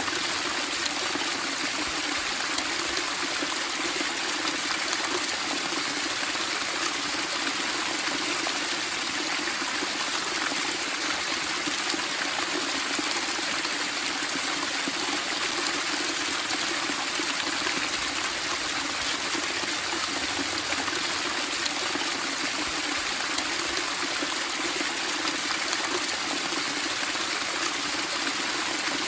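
Flowing water splashing and babbling steadily, with no let-up or change.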